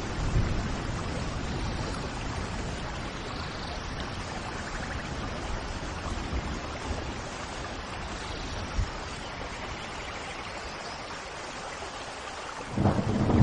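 Steady rain hiss with a few faint bird calls over it. A louder low rumble swells up near the end.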